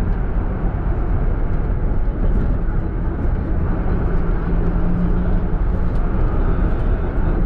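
Route minibus running, a steady low rumble of engine and road noise, with a low hum that swells briefly about halfway through. No brake squeal is heard.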